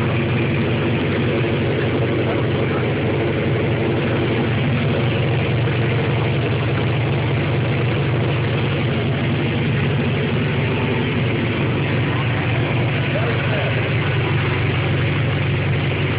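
Muscle car engine idling steadily, a low, even note that holds without revving.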